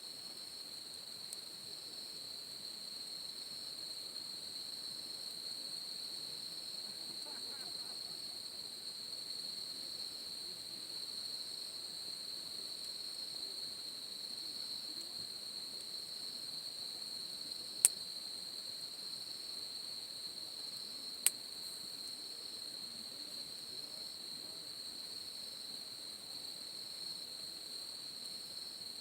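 Crickets or similar insects trilling in one steady high chorus. Two sharp pops stand out, the second about three seconds after the first.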